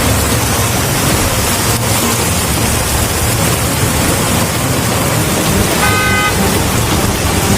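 Road traffic in heavy rain: a steady rush of rain and vehicle noise with engines humming underneath. A vehicle horn honks briefly about six seconds in.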